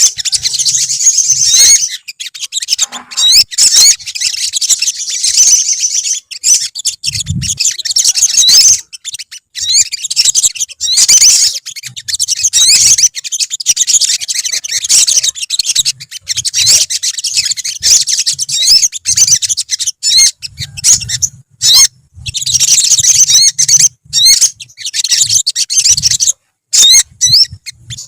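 Olive-backed sunbirds singing in chorus: dense, overlapping runs of quick, high chirps and twittering notes, breaking off briefly a few times.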